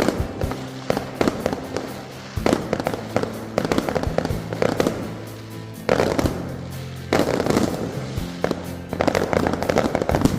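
Fireworks going off in several bursts of rapid sharp cracks and bangs, over background music with steady low notes.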